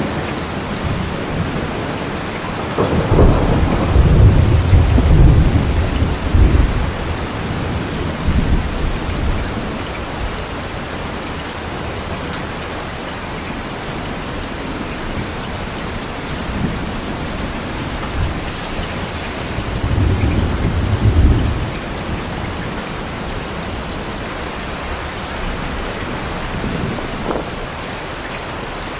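Steady heavy rain with rolling thunder: a long low rumble about three seconds in, another around twenty seconds, and a faint short one near the end.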